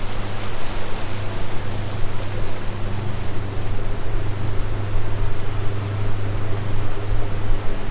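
Small boat's outboard motor running steadily at an even pitch, with water and wind rushing past as the boat moves along.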